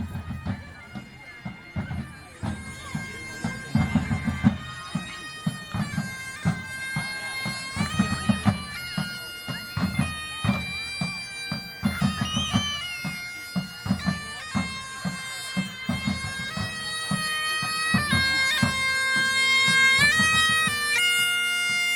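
Bagpipes playing a tune, their notes stepping over a steady drone, with a regular low drum beat underneath.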